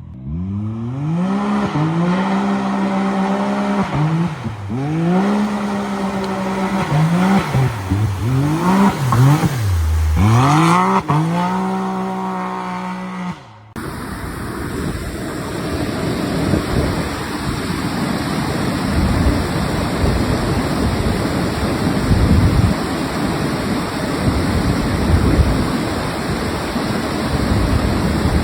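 An off-road truck's engine revving up and down repeatedly, its pitch climbing and dropping several times. About halfway through, the sound cuts off abruptly and gives way to a steady rushing noise with no engine tone.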